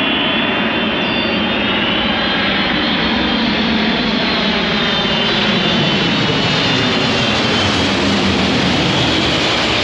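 Jet aircraft flying past: loud, steady engine noise with a high whine that bends slowly up in pitch and then back down.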